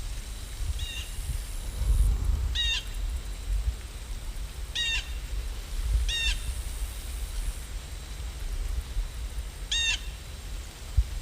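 Steady rain ambience with a low rumble, over which a bird calls five times, each call a quick cluster of short notes; the first is faint.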